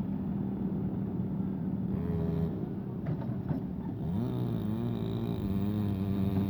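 A heavy engine running steadily, with a second pitched sound wavering up and down joining it about four seconds in.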